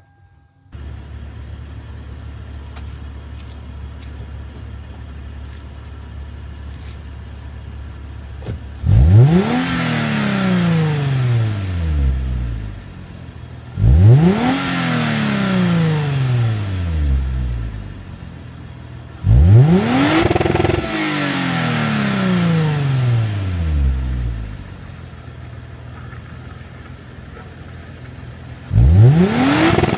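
2009 Lexus IS250's 2.5-litre V6 running through a Tanabe Revel Medalion cat-back exhaust. It idles steadily, then is revved four times, each rev a quick rise in pitch that falls back to idle over about three seconds, the last one near the end. The note is a little louder than the stock exhaust.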